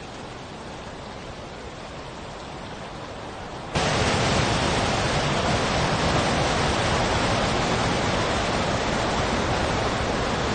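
Steady rushing of water, like a stream or waterfall, with no distinct events; it becomes suddenly much louder about four seconds in.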